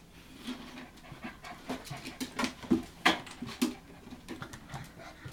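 Hokkaido dog puppies panting, with irregular light clicks and knocks throughout.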